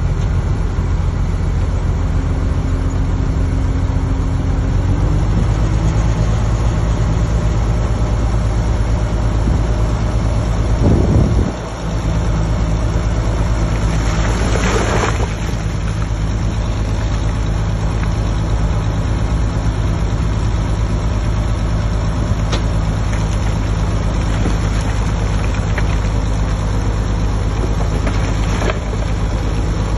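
Heavy diesel engine of earthmoving machinery running steadily at a low, even pitch. The note briefly sweeps down about a third of the way in, and a short rush of noise follows a few seconds later.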